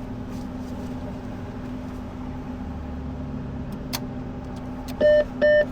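Steady low hum, then a sharp click about four seconds in. Near the end come three loud electronic beeps of the same pitch from an ATM, each a little under half a second long.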